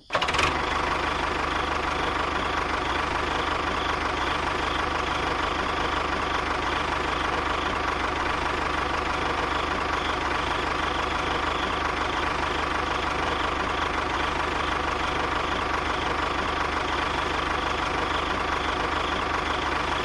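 Tractor engine running steadily, cutting in suddenly at the start and holding an even, unchanging note.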